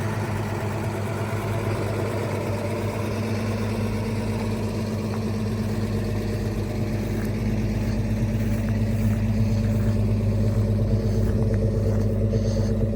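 1946 Chevrolet truck's inline-six engine idling steadily, growing a little louder partway through.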